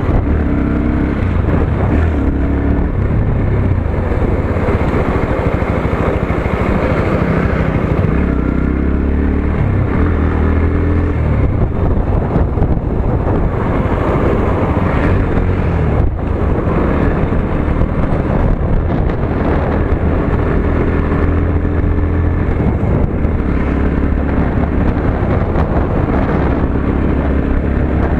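Motorcycle engine running while riding, its pitch rising and falling with the throttle, with some wind on the microphone.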